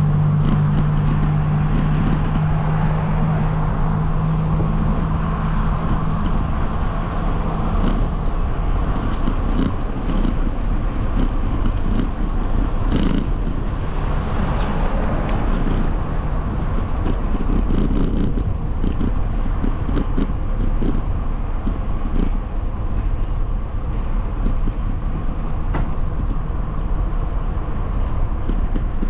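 Steady road and wind noise while riding along a road among traffic, with a steady engine hum in the first several seconds that fades out about a quarter of the way in.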